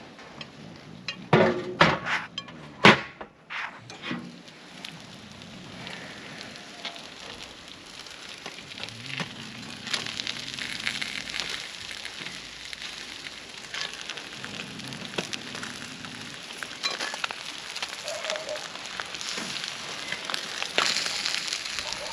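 Fish grilling over an open fire: a steady sizzle and crackle with small pops, after three or four loud knocks in the first three seconds.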